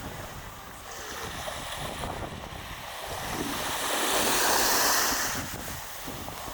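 Outdoor wind and surf noise, swelling into a louder rush about four seconds in and falling back a second or so later.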